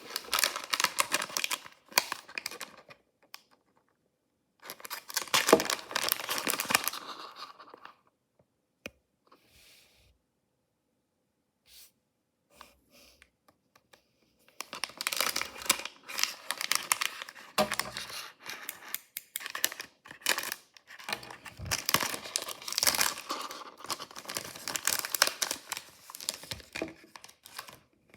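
Packaging of mystery blind-box toys being torn open and crinkled by hand: crackly tearing and rustling in two short bursts, a pause of several seconds with only a few faint ticks, then a long stretch of steady crinkling and tearing.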